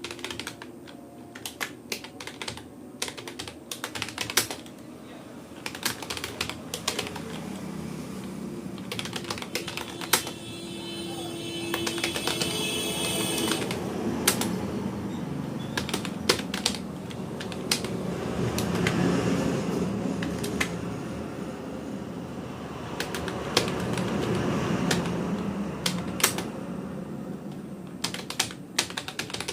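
Irregular keystroke clicks from typing on a Rapoo computer keyboard. From about ten seconds in until near the end, an unidentified louder background sound swells and fades under the clicks.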